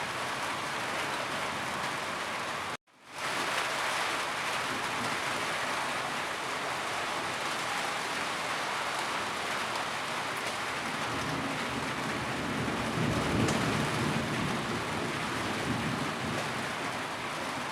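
Heavy rain falling steadily, with a low rumble of thunder swelling up about two-thirds of the way through. The sound cuts out for a split second about three seconds in.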